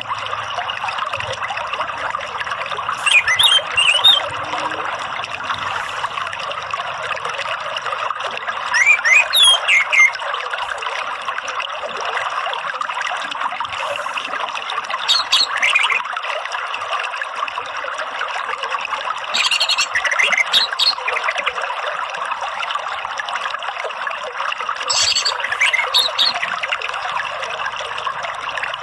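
Steady rush of running water, with five short phrases of orange-headed thrush song coming every five or six seconds.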